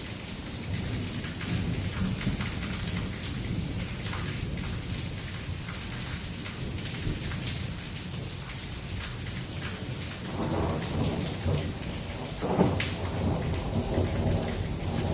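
Heavy rain pouring steadily in a thunderstorm, with thunder rumbling underneath; a louder roll of thunder swells about two-thirds of the way through.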